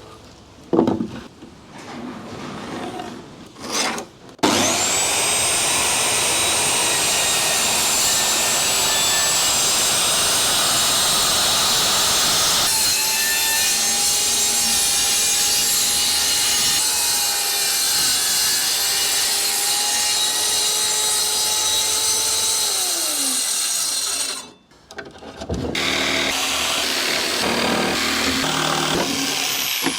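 An electric power saw cutting wood. Its motor spins up sharply about four seconds in, runs steadily for around twenty seconds, then winds down and stops.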